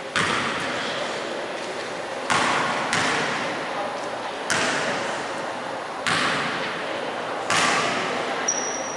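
A basketball bouncing on a gym floor, with six separate thuds at uneven intervals, each echoing through the large hall. A short high squeak comes near the end.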